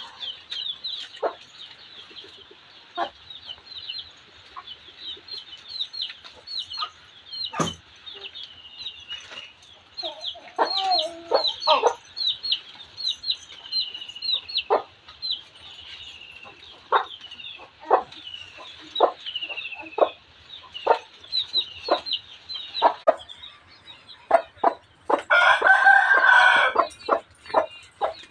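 Chickens clucking in short calls throughout, over a steady run of high, downward-gliding chirps from small birds. Near the end comes one loud, drawn-out fowl call lasting about two seconds, followed by a quick run of clucks.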